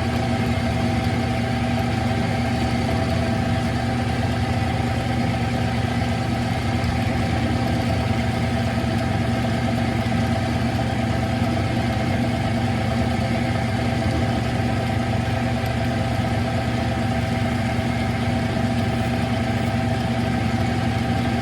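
Smithy CB-1220XL three-in-one lathe running steadily during a slow facing cut, a constant machine hum with a few held tones.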